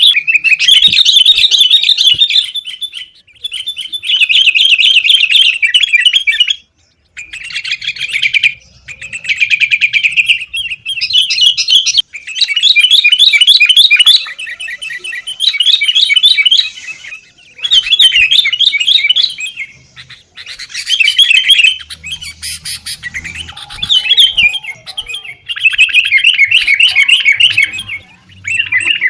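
Sooty-headed bulbuls (kutilang) calling noisily in fast, chattering phrases of rapidly repeated notes, one after another with brief pauses between them.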